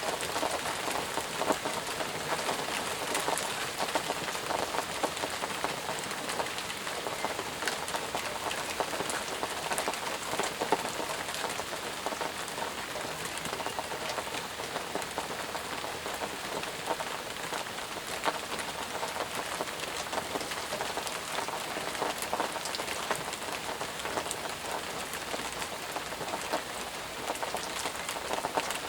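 Steady rain falling on foliage and ground, with many close individual drops ticking through the hiss.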